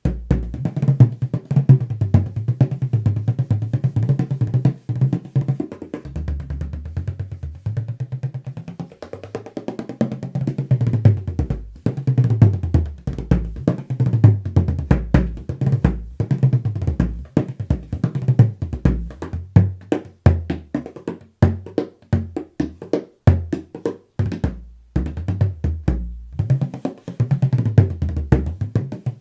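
A Mike Quinlan 15.5-inch tunable bodhrán with a medium goatskin head, played with a straight rod style tipper in a fast, continuous rhythm. The drum's pitch slides up and down as it is played.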